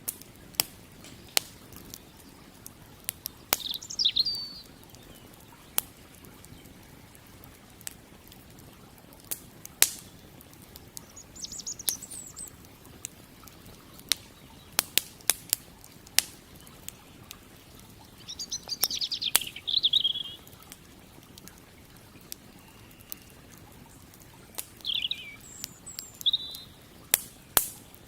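Wood campfire crackling, with sharp pops at irregular intervals, while birds chirp in short phrases now and then.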